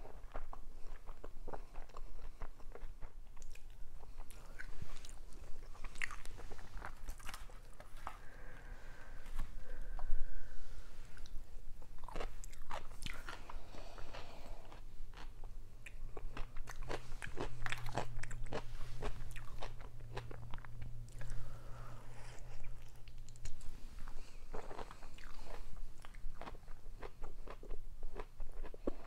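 Close-miked eating of stuffed grape leaves (dolmas) and salad: irregular biting, crunching and wet chewing, with mouth clicks.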